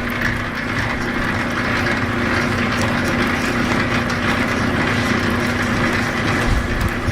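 Electric wire-stripping machine (QJ009) running with a steady motor hum and a continuous rough rattle as flat Romex cable is fed through its rollers, which squeeze the insulation off.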